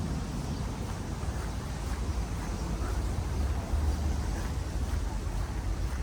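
Steady outdoor street ambience with a low rumble of wind on the microphone and an even hiss above it.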